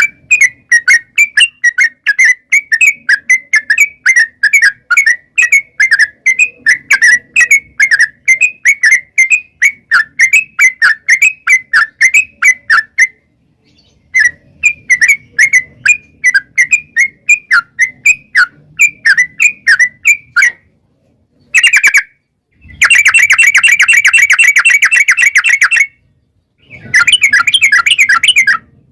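Yellow-vented bulbul (trucuk) song: rapid strings of bubbling chirps, about four a second, broken by short pauses, and about three-quarters of the way through a dense, unbroken rattling trill lasting a few seconds. This is the long rolling "ropel" call used as a lure to set other trucuk singing.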